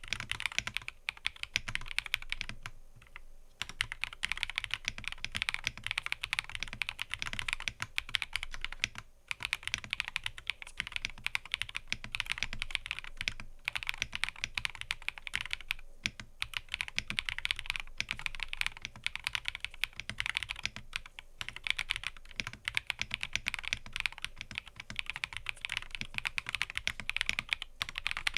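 Typing on a mechanical keyboard: a fast, continuous stream of key clicks with brief pauses about 3 s in, about 9 s in and a few times later.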